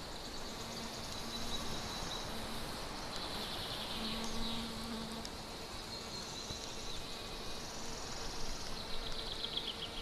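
A fly or similar insect buzzing close to the microphone with a steady hum that comes and goes in the first half, while small songbirds sing in the surrounding forest, one with a quick falling trill near the end.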